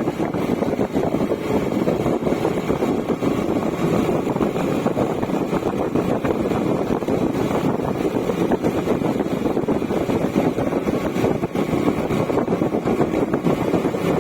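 Bajaj Avenger Cruise motorcycle's single-cylinder engine running steadily, a dense continuous engine noise.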